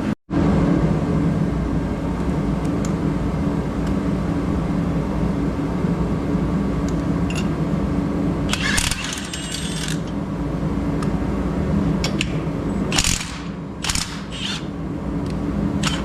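A motor running steadily, with bursts of metallic clinking and rattling about nine seconds in and again near the end.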